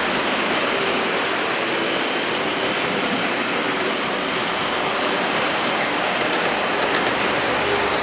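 Heljan HS4000 Kestrel model locomotive running on a layout: a steady whirring hiss of its small motor and wheels on the track, with a faint hum.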